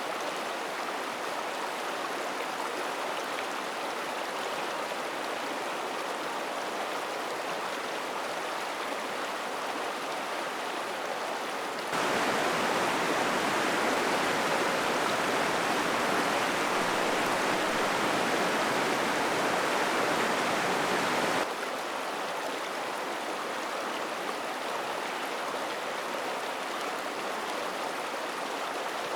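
Mountain stream rushing over rocks as a steady hiss of water. It turns abruptly louder for about ten seconds in the middle, then drops back just as suddenly.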